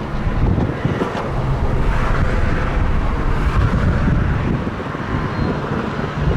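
A diesel locomotive hauling a sugarcane train runs with a steady low rumble and hum, with wind buffeting the microphone.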